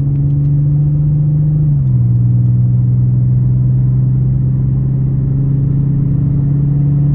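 Infiniti G37's 3.7-litre V6, heard from inside the cabin, pulling steadily as the car gathers speed. Its hum steps down in pitch about two seconds in as the automatic gearbox shifts up, then holds steady.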